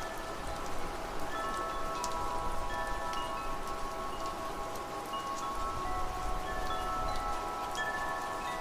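Wind chimes ringing, several clear tones struck at irregular moments and left to ring out, over steady rainfall.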